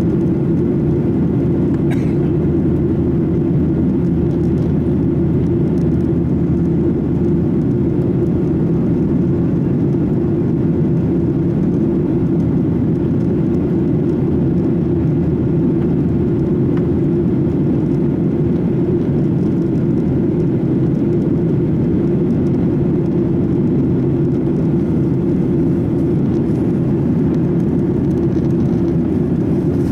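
Steady low drone of an airliner heard from inside the passenger cabin: jet engine and airflow noise holding constant, with a faint click about two seconds in.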